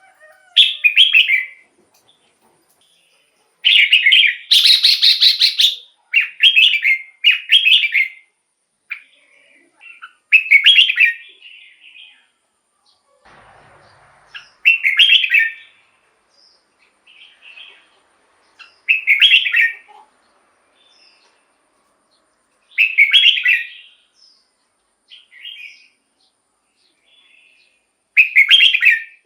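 Red-whiskered bulbul singing: short, loud, warbled phrases every few seconds, with softer notes between them.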